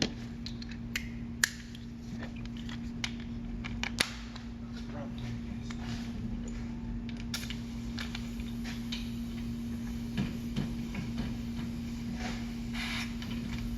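Scattered sharp metallic clicks and clinks of hand tools working on a brake caliper bracket, over a steady hum.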